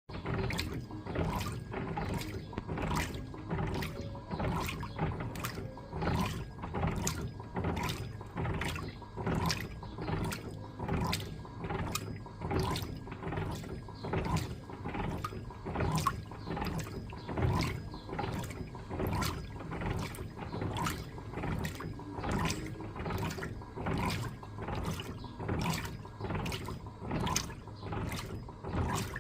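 Electrolux LTA15 top-loading washing machine agitating a load of bed linen, its agitator churning and sloshing the water in a steady, even back-and-forth rhythm of about two strokes a second.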